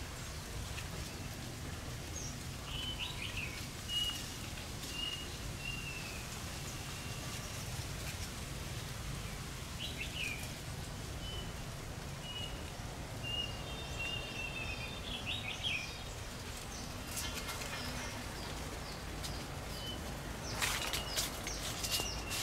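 Small birds chirping and whistling now and then over a steady low background rumble of outdoor air. Near the end come a few sharp clicks or rustles.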